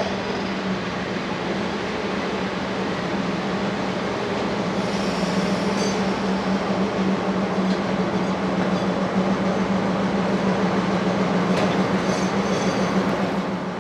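Steam-and-diesel-hauled train at a station: a continuous rumble and rattle of the train with a constant low hum, growing slightly louder.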